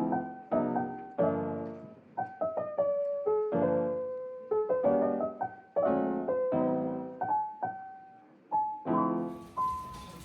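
Background music: solo piano playing a gentle melody of struck chords and single notes, each note dying away.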